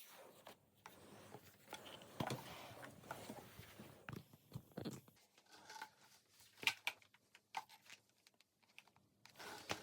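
Faint scattered clicks and rustles of handling noise, with no notes played.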